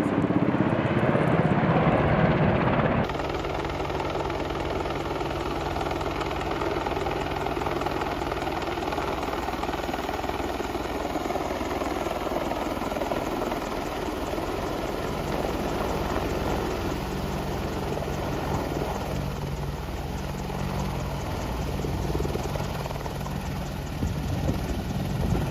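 Helicopter running: a steady rotor and engine noise. The sound changes abruptly about three seconds in, becoming a little quieter.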